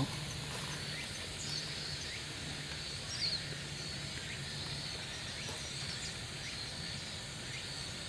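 Scattered thin, high chirps from Japanese white-eyes, with a slightly louder one about three seconds in, over a steady faint outdoor background hum.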